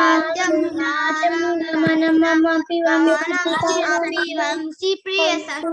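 A child chanting a line of a Sanskrit verse to a simple, steady melody, held on a few notes with short breaks between phrases.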